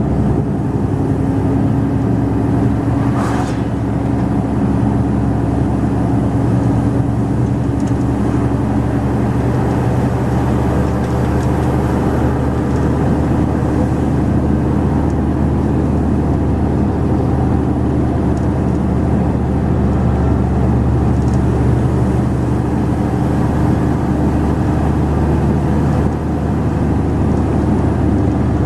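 Mercedes-Benz Actros 2546 truck's diesel engine running steadily under way, with one brief hiss about three seconds in.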